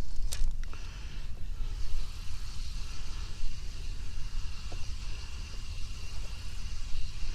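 Wind rumbling on the microphone, with a few sharp clicks or taps in the first second and a faint steady high-pitched tone over a hiss from about a second and a half in.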